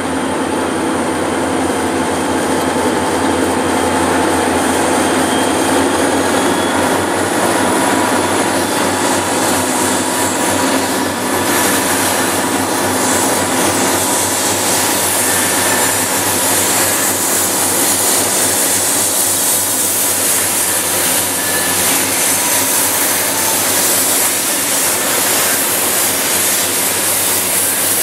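Diesel locomotives hauling a freight train across a steel truss bridge, engines working under load with a steady drone. The sound grows louder and noisier about eleven seconds in as the locomotives come onto the bridge, with the rumble of wheels on the rails.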